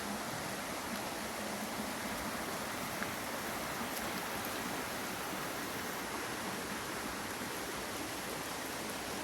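Steady rushing of a flowing creek, an even hiss with no change.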